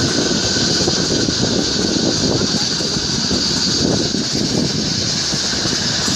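Narrow-gauge Kalka–Shimla Railway toy train running along the track, a steady, unbroken noise.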